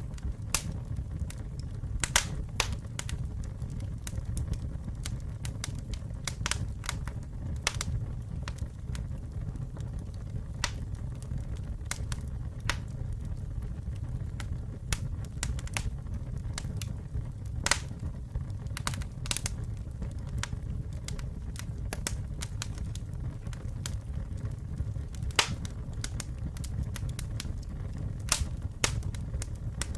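Campfire burning, with a steady low rumble and irregular sharp crackles and pops from the burning wood; a few louder snaps stand out, around two seconds in, near the middle and about three quarters of the way through.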